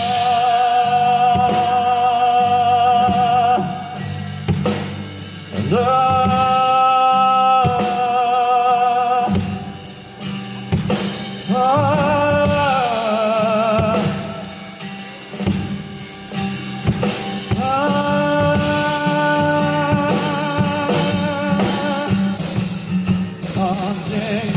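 Live band playing a ballad with drum kit, and a singer holding four long notes with vibrato between pauses, the third sliding downward.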